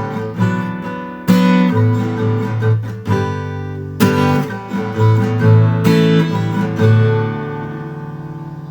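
Instrumental song ending on acoustic guitar: strummed chords, with a last chord left ringing and slowly fading out.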